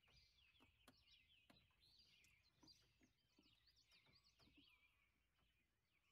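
Near silence, with faint birds chirping: quick repeated high chirps throughout, and a few soft clicks.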